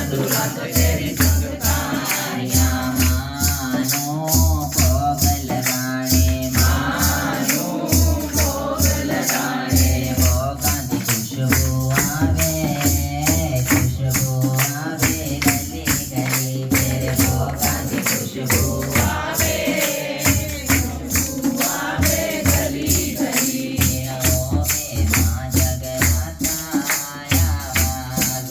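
Devotional bhajan music: voices singing over a steady beat of drums and jingling, rattling percussion.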